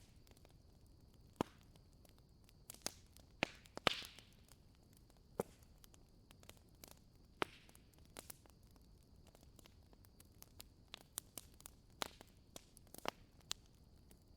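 Wood fire crackling in a fireplace: irregular sharp pops and snaps from the burning logs, the loudest about four seconds in, followed by a brief hiss.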